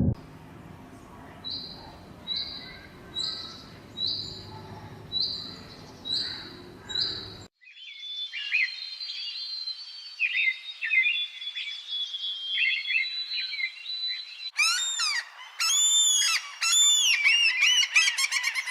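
Birds calling: first a single high chirp repeated seven times at about one a second, then after a cut a varied warbling song, and from near the end rapid runs of fast sweeping notes.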